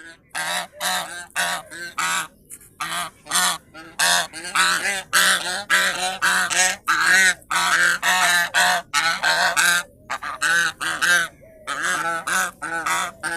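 Geese honking over and over in quick succession, about two to three calls a second, with a few short breaks.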